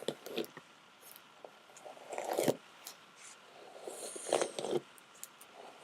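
Hairbrush being pulled through long hair in several separate strokes, working out tangles.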